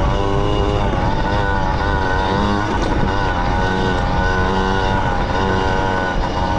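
Small bike engine running unevenly, its pitch wavering up and down, after the motor was drenched in water and is not running correctly.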